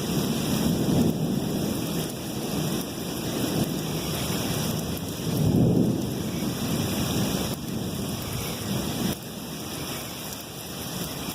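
Thunderstorm: steady rain falling, with rolling thunder rumbling low underneath and swelling loudest about halfway through.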